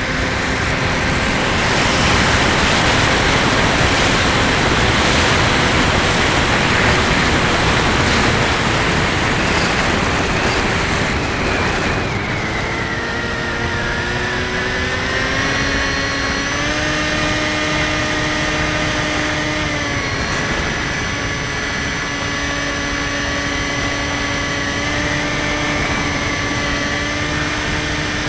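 Electric motor and propeller of a Skywalker 1680 RC plane in flight, buried under heavy wind rush for about the first twelve seconds. Then the rush eases and the motor's whine comes through clearly, rising in pitch in steps over the next few seconds, dipping briefly, then holding steady.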